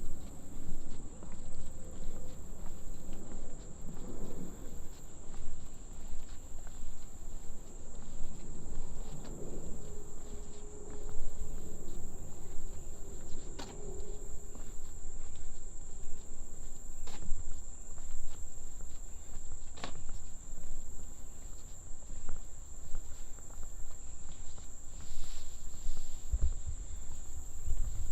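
Insects calling in one steady, high-pitched unbroken drone, over irregular footsteps on the trail.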